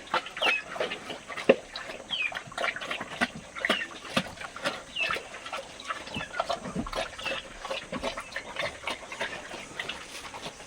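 Animals giving short high squeaks and chirps, over near-constant clicking and scuffling.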